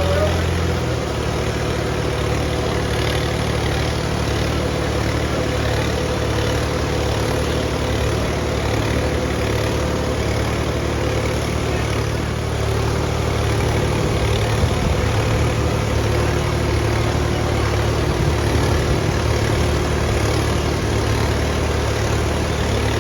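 Diesel tractor engine running steadily, a deep continuous drone whose note shifts slightly about a second in.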